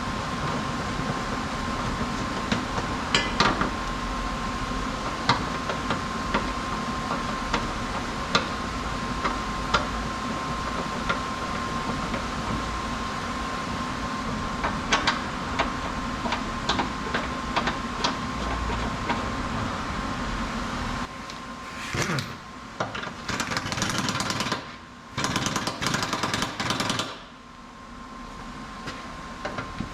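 Workshop tool work on car suspension bolts: a steady mechanical hum with a thin high whine and scattered sharp knocks, then an impact wrench running in several short bursts in the last third.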